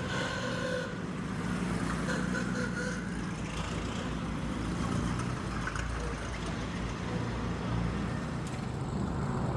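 Engines of antique early-1900s race cars running steadily at low speed as the cars roll and line up.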